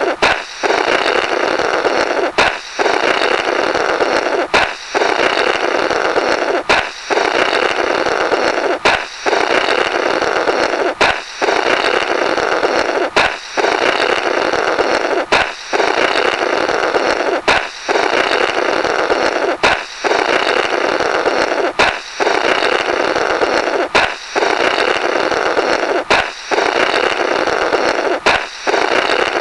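Comic 'blorrrt' sound effect repeating in a loop: a balloon pops with a sharp crack, then someone blows through the broken rubber in a long noisy blurt lasting about two seconds. The cycle comes round about every two seconds, some fourteen times.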